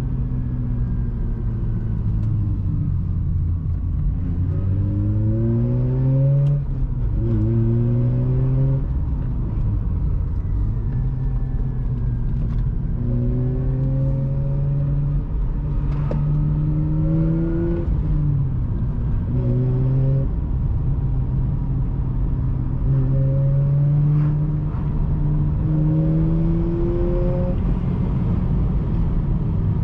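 Mazda RX-8's twin-rotor Renesis rotary engine through a Re Amemiya aftermarket exhaust, pulling hard with its pitch rising, then dropping back sharply at each shift or lift-off, again and again.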